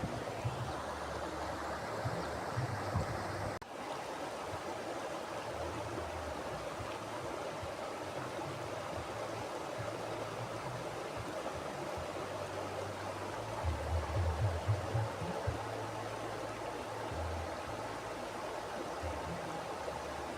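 Mountain river flowing: a steady rush of water. Low irregular rumbles sit underneath, heaviest a little past the middle, and there is a brief dip in the sound about three and a half seconds in.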